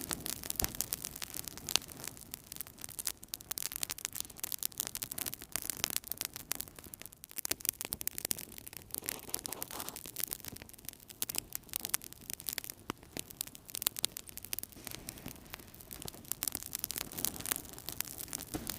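Wood fire burning in a fireplace: a dense, irregular crackling of snaps and pops over a steady hiss of the flames.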